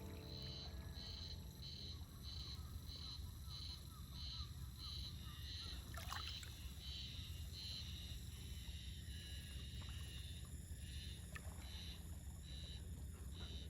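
Seaside ambience: a low, steady wash of waves along the shore, with a high chirping call repeating about twice a second and a short rising chirp about halfway through.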